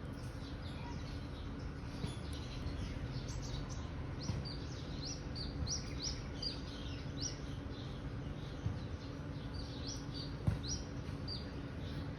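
Small birds chirping: a run of short, high, downward-slurred chirps, several a second through the middle stretch, over a steady low background hum. There is a single brief knock near the end.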